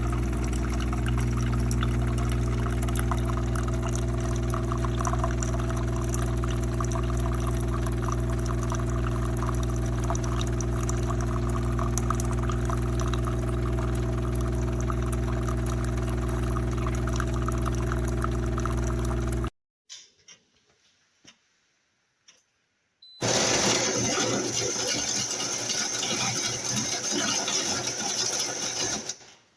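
De'Longhi TrueBrew coffee maker running: a steady motor and pump hum that stops abruptly about 19 seconds in. After a few seconds of quiet, a louder rushing, hissing sound starts and runs until just before the end.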